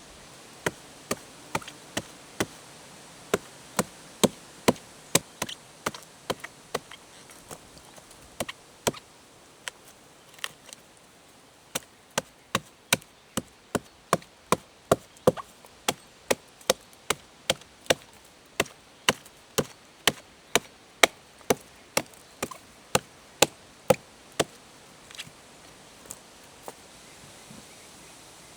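Wood being chopped: a long series of sharp strikes, about two to three a second. The strikes come in runs with a brief pause about ten seconds in and grow fainter near the end.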